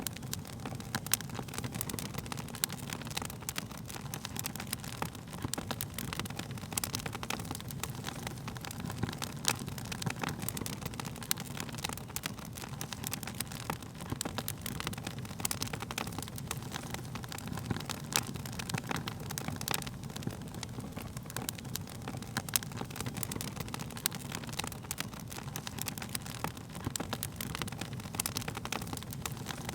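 Wood fire burning with a steady low rumble of flames and frequent irregular crackles and pops of burning wood.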